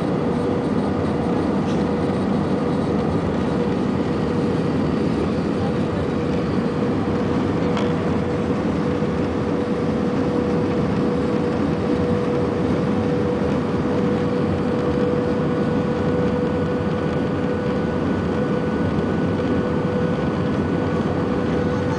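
Steady airliner cabin noise during the descent to land: engine and airflow rush with a constant droning hum.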